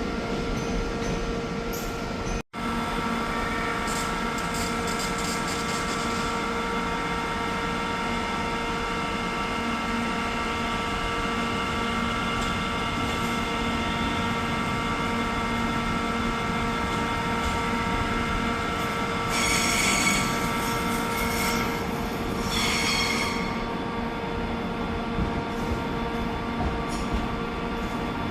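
A train running with a steady mechanical hum of several fixed tones. A high-pitched squeal comes twice, about two-thirds of the way through. The sound drops out for a moment about two and a half seconds in.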